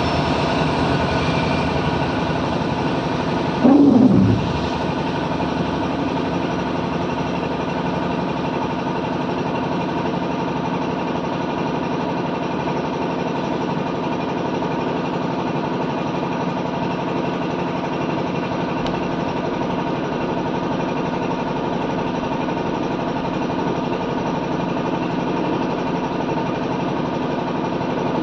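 A vehicle engine idling steadily. About four seconds in, a brief loud sound that falls in pitch.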